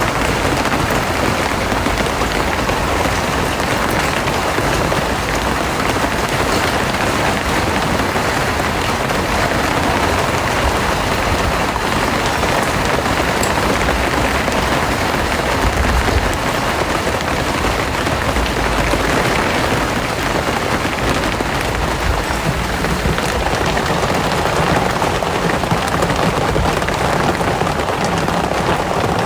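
Steady, loud rain, a dense even hiss of drops. A low rumble swells briefly about halfway through.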